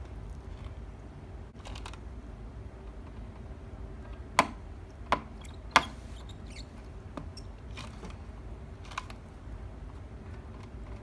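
Small balloons popped with a pin: three sharp pops about two-thirds of a second apart near the middle, then a few fainter clicks, over a low steady hum.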